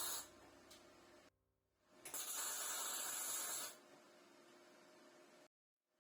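Bursts of steady spraying hiss, each lasting about a second and a half, with quieter hiss between them and an abrupt cut-off near the end.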